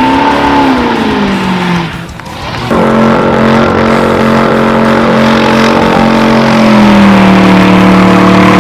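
Car engine held at high revs for a burnout, with tyre squeal over it. The revs fall and the sound dips briefly about two seconds in, then climb back and hold steady, easing down near the end.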